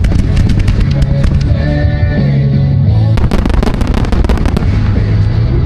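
Fireworks crackling and popping over loud music, with many sharp reports and a dense run of crackles about three seconds in.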